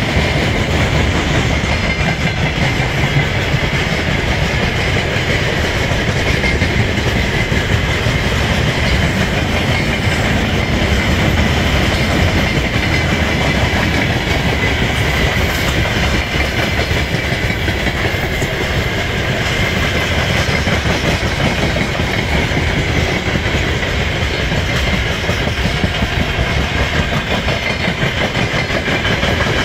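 Freight train wagons (tank cars and open gondolas) rolling past close by, a steady loud noise of wheels running on the rails, with a constant high whine over it.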